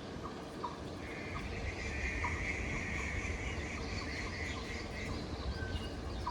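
Birds chirping in short, repeated calls, with a higher continuous trill from about a second and a half in to about five seconds, over a low steady rumble.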